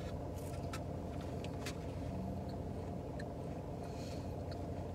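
Chewing falafel, with a few short crunches and mouth clicks in the first two seconds, over a steady low hum of the car cabin.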